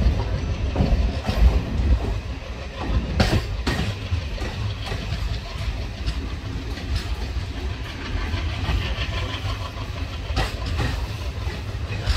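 Passenger train coach rolling slowly along a station platform: a steady low rumble from the wheels, with a few sharp clacks as they pass over rail joints.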